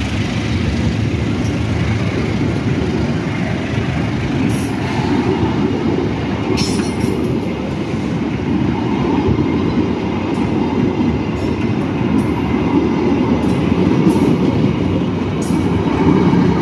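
Passenger coaches of the KA Siliwangi train rolling slowly past at close range as it pulls away from the station: a steady low rumble of steel wheels on the rails, with a few brief sharp high clicks from the wheels.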